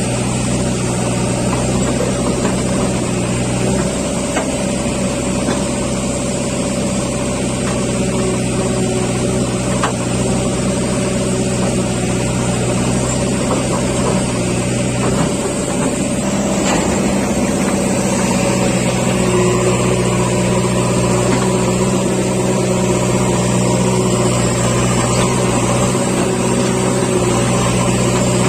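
Heavy diesel engine of a JCB backhoe or tractor running steadily, its pitch shifting slightly a couple of times.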